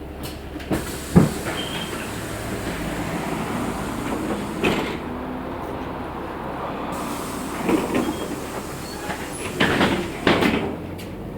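Interior ride noise of a LiAZ 6213.65 articulated city bus under way: a steady running rumble with several sharp knocks and rattles, the loudest about a second in and a cluster near the end.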